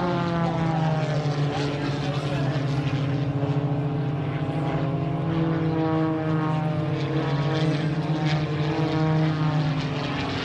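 Propeller airplane engine running continuously as it flies past, its pitch sliding down, rising again about midway, then falling.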